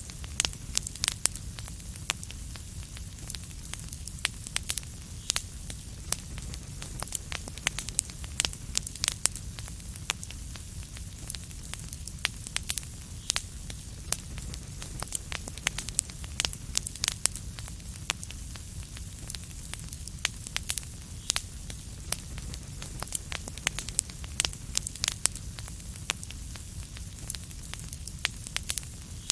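Wood fire crackling and popping in a fireplace: many sharp, irregular pops over a low steady rumble of the flames.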